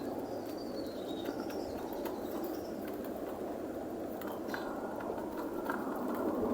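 Pigeons cooing steadily, with a few faint clicks.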